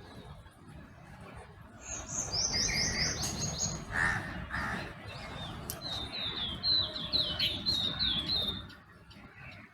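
Songbirds chirping: a quick run of repeated high notes about two seconds in, then a longer, slightly lower run of repeated notes from about six seconds to near nine seconds, over a low rumble.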